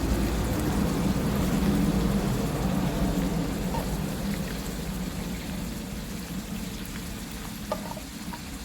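Food sizzling in a pan over a wood fire: a steady crackling hiss over a low rumble, slowly fading, with a small click near the end.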